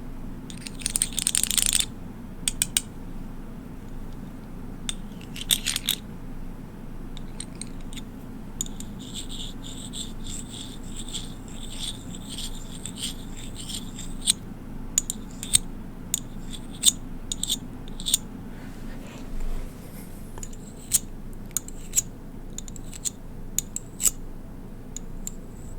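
Small hard objects being tapped and clicked against each other: scattered sharp clicks, a brief scrape about a second in, and a run of quick light ticks in the middle.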